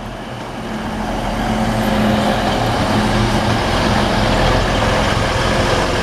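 A TransPennine Express Class 185 diesel multiple unit's underfloor diesel engines running as the train moves through the station. There is a steady low engine hum over wheel and rail noise, growing louder over the first two seconds and then holding level.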